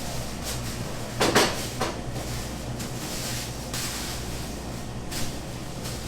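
Knocks and clatter of things being handled in a bakery kitchen, with a loud knock a little over a second in and a smaller one just after, over a steady low hum of equipment.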